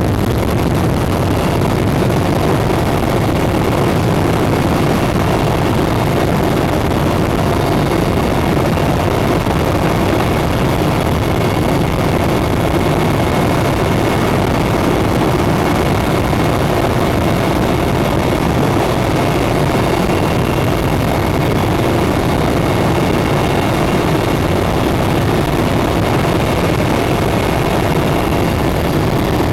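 Cabin noise of a Mi-8 helicopter in flight: the steady, loud drone of its rotor and twin turboshaft engines heard from inside, with a faint steady high whine above the rumble.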